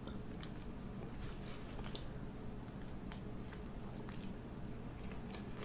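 Quiet eating: a person chewing with scattered small wet mouth clicks and smacks.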